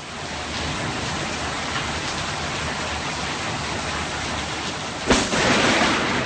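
Heavy rain falling steadily, then a sudden close thunderclap about five seconds in, with the crack running on into loud rumbling.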